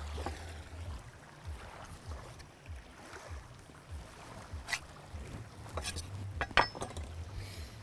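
Wind buffeting the microphone as a steady low rumble, with a few sharp clinks and knocks in the second half, the loudest ringing briefly.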